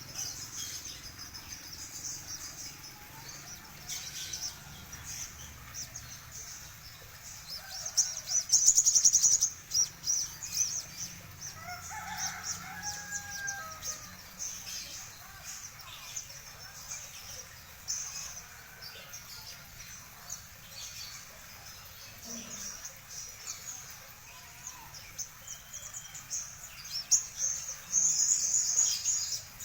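A sogon bird singing hard in fast, high-pitched chattering phrases, loudest in two stretches about eight seconds in and near the end. A lower drawn-out call of about two seconds sounds once around twelve seconds in.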